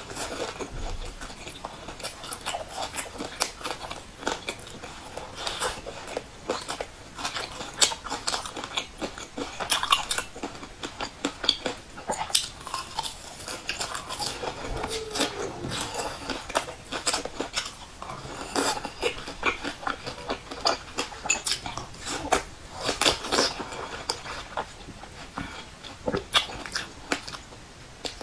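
Person biting and chewing crunchy deep-fried, crumb-coated buns: many quick, irregular crackling crunches.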